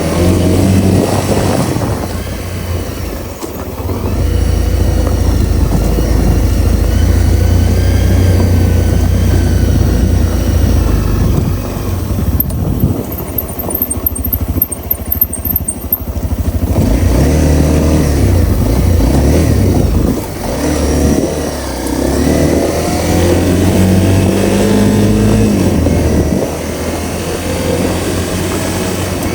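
Honda CRF250L's single-cylinder four-stroke engine under way, its pitch rising and falling with the throttle. About midway it eases off for a few seconds, then pulls again.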